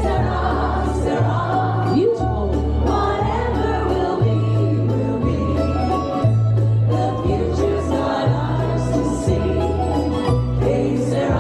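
A vocal group singing a 1940s-style song in harmony over an accompaniment, with a bass line stepping to a new note about once a second.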